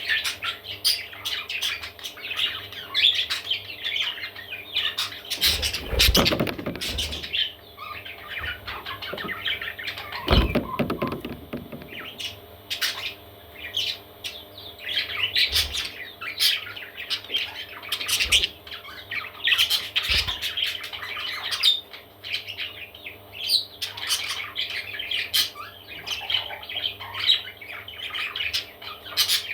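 Parrot chicks chirping and squawking continuously in a busy, overlapping chatter, with a couple of low bumps about six and ten seconds in.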